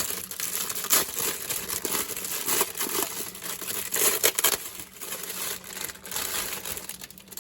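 A plastic bag of model kit parts being handled and opened, crinkling steadily, with a few sharper crackles about one and four seconds in, fading near the end.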